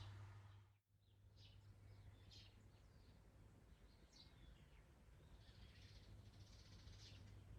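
Near silence with faint, short bird chirps now and then and a low steady hum underneath.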